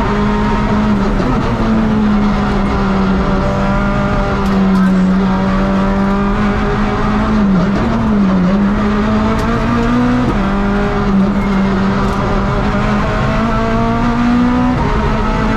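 Rally car engine heard from inside the cockpit, running hard at high revs along the stage. Its note dips briefly about halfway through, then climbs steadily and drops suddenly near the end with a gear change.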